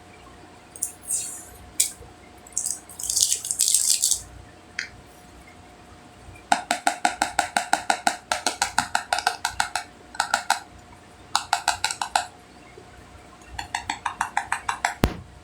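A few brief scratchy rustles, then several runs of rapid, even tapping, about eight taps a second, on a hard makeup container that rings faintly with each tap. A single low thud comes near the end.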